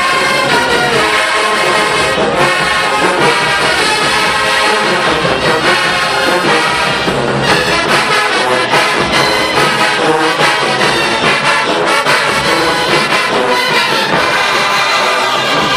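HBCU marching band playing loud, with the brass section (trombones and trumpets) carrying the tune over drums.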